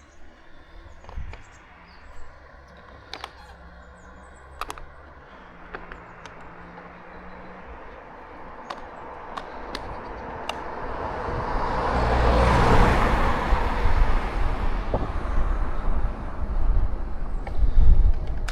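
A few sharp clicks, then a vehicle passing on the forest road: its noise swells to a peak about twelve seconds in and eases off. Wind rumble on the microphone of the moving bicycle grows loud towards the end.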